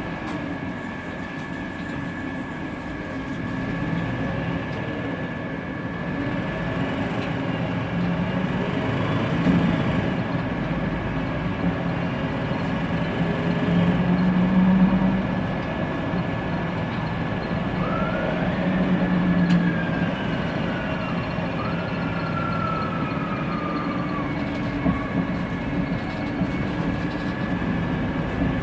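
Inside a Mercedes-Benz Conecto CNG city bus on the move: the engine and cooling fan run with a steady drone and a high whine. About two-thirds of the way through, the Voith DIWA automatic gearbox whistles twice, each whistle rising quickly and then falling away.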